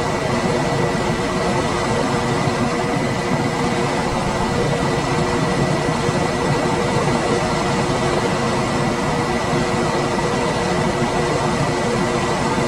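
Room air conditioner running steadily: an even rush of air with a faint steady hum and a thin high whine.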